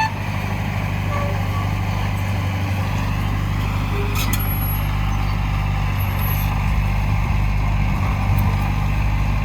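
Heavy diesel earthmoving machinery, a dump truck or bulldozer, running steadily with a low, even engine drone.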